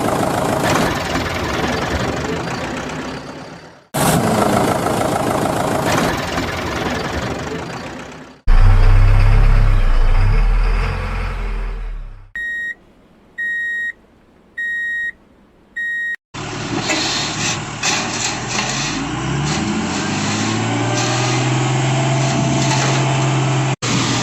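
A string of cut-together vehicle sounds: a heavy noisy rumble, a deep low engine sound, four electronic reversing beeps about a second apart, then an engine running and rising in pitch.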